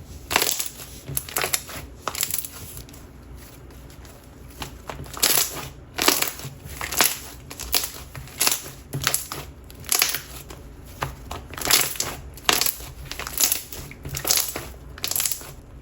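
Thick, stiff 'chew' texture slime being kneaded and pressed by hand, giving a sticky crackle with each squeeze, irregularly, about once a second.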